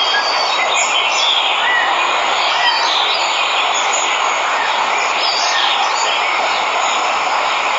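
Steady rushing of a waterfall, with many birds chirping and whistling over it.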